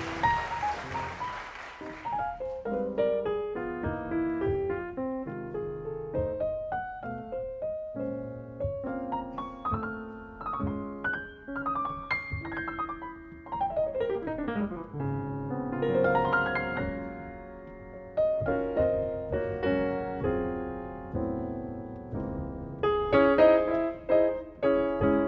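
Jazz piano solo: chords and quick melodic runs on an acoustic piano, including a fast descending run about halfway through and fuller, louder chords near the end. A short spell of applause fades out about two seconds in.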